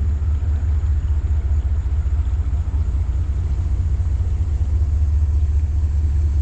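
A steady low rumble with a faint even hiss above it, holding level throughout.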